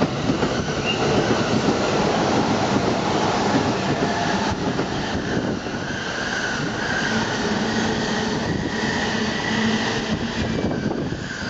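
E259 series Narita Express electric train passing through a station at speed: a steady, continuous rumble of wheels on rails with fast clatter, and faint squealing tones in the middle.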